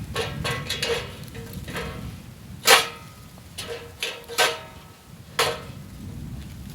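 Metal parts of a fire pit knocking and clanking together as they are handled, about eight ringing metallic clanks with the loudest near the middle, over a low outdoor rumble.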